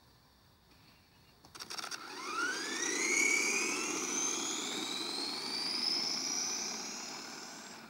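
Himoto 1:10 monster truck RC car's electric motor whining as it accelerates hard, its pitch climbing steeply and then holding high, over the rushing noise of the drivetrain and tyres. The sound peaks a second or so after it starts and slowly fades as the truck runs on at speed.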